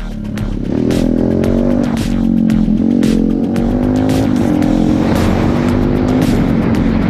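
Dirt bike engine running under throttle, its pitch rising and falling as the rider works the throttle. Background music with a steady beat plays along with it.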